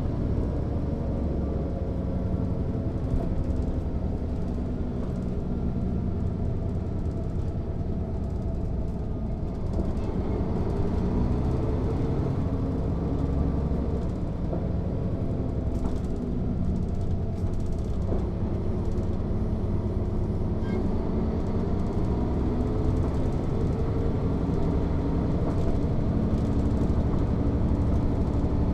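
The six-cylinder diesel of a 1993 Mercedes-Benz O 407 city bus running under way, heard on board with a steady low rumble. The pitch of the engine and drivetrain sinks about a third of the way in, then climbs gradually again toward the end as the bus picks up speed.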